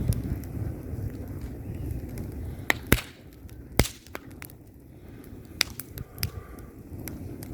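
Wood fire burning in a fireplace: a low, steady rush of flames with scattered sharp crackles and pops, the two loudest pops about three and four seconds in.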